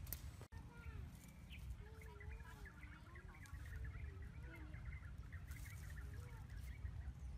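Birds chirping and calling over a low rumble of wind on the microphone. The sound drops out briefly about half a second in.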